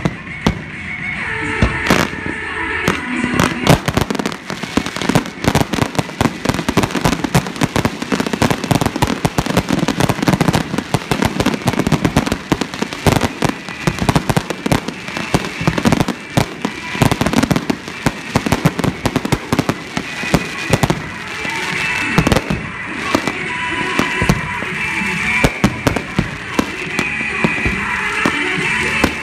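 Professional aerial fireworks: a rapid, nearly continuous barrage of shell bursts and sharp reports. The barrage is densest from about four seconds in to about twenty seconds in, then thins to scattered bangs.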